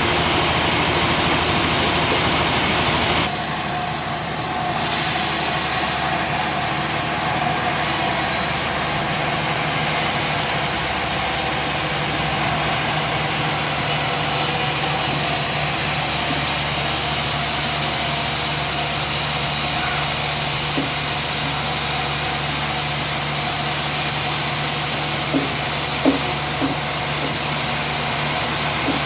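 A steady engine running, with a constant hiss over it. The sound shifts slightly about three seconds in, and a few faint clicks come near the end.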